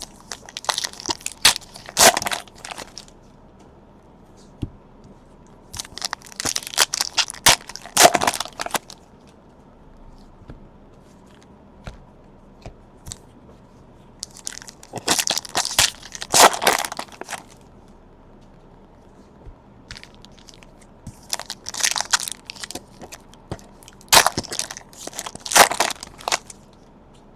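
Crinkly plastic trading-card wrapping being torn open and handled, in four separate bursts of crackling a few seconds apart.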